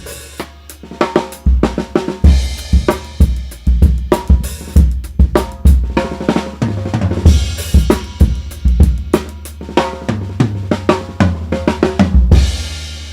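DW Reserve Waterfall Bubinga drum kit being played: kick drum, snare, toms and cymbals in a busy groove with fills, the drums ringing long and low under the hits. About twelve seconds in, a final crash hit rings out and fades.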